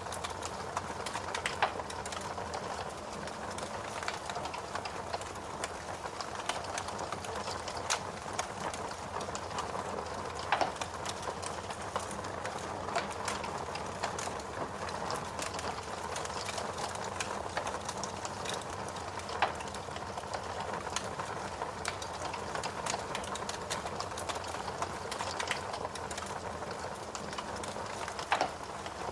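Wood fire crackling in a fireplace over steady rain, with a few louder pops standing out now and then.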